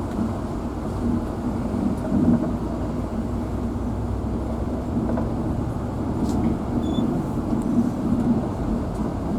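Steady low rumble of a vehicle's engine and running gear, heard from inside the vehicle.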